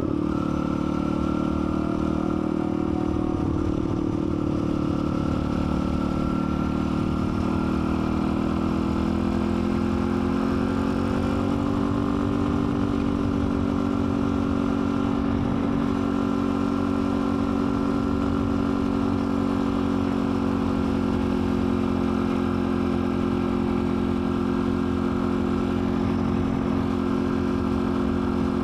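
Dirt bike engine running at a steady pitch while riding, rising slightly about ten seconds in and then holding there.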